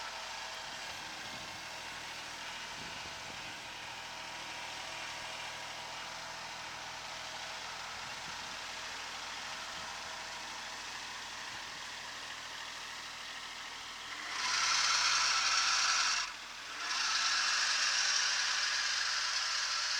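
Kubota SL28H tractor engine running steadily. About fourteen seconds in, a loud, high screech starts from a slipping alternator belt, caused by the belt having lost its tension. It stops for a moment, then comes back.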